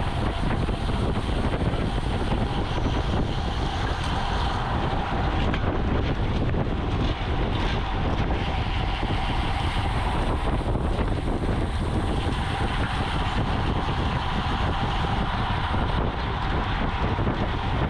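Steady wind buffeting the microphone of a camera on a moving racing bicycle, with tyre and road noise underneath.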